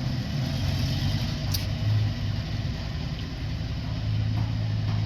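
Truck engine running steadily with a low hum, with a short click about a second and a half in.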